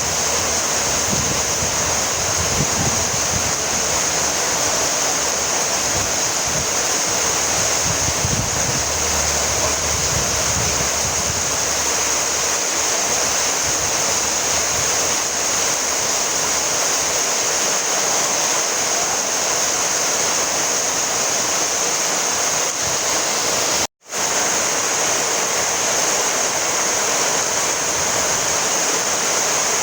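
Steady rain falling, a dense even hiss, which cuts out for an instant about three-quarters of the way through.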